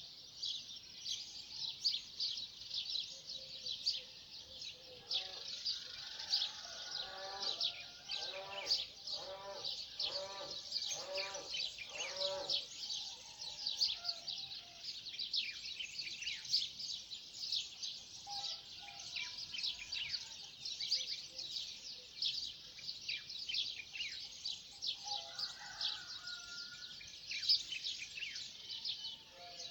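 Dawn chorus of many small birds chirping and singing together. From about a fifth of the way in, a lower animal call of about seven short, evenly spaced notes repeats for several seconds, and a shorter low call comes again near the end.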